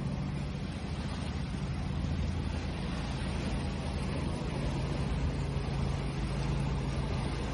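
Steady rush of sea waves and water, with a continuous low motor hum underneath.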